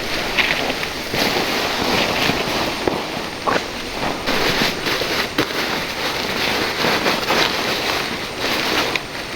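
A shallow river flowing over stones: a steady rush of water with irregular small splashes.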